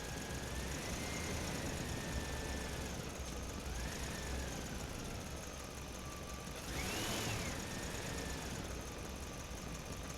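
A toy fire truck's small motor running steadily with a thin whine that drifts up and down in pitch. About seven seconds in, the whine rises sharply and falls again as the sound briefly gets louder.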